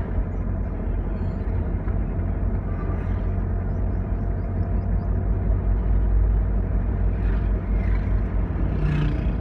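Changan truck running at a steady speed, with a continuous low engine drone and road rumble.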